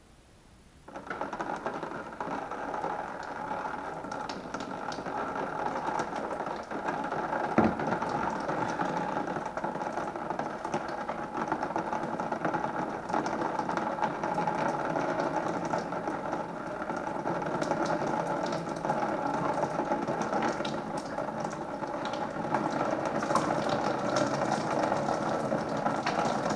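Engine coolant draining from an opened radiator drain valve, a steady stream splashing into a catch pan, starting about a second in and running on evenly.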